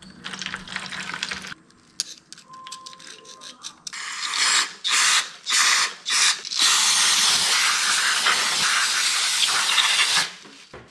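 Aerosol can of carb cleaner spraying: several short bursts, then one long continuous spray of about three and a half seconds. Quieter clicking and handling noises come before it.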